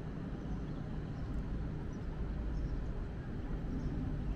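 Electric multiple-unit passenger train approaching slowly along the station track: a steady low rumble.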